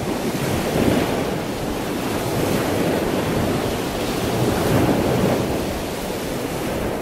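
Water splashing and churning as killer whales swim and breach in a show pool, heard as a steady loud rush that swells about a second in and again around the big splash four to five seconds in, with wind noise on the microphone.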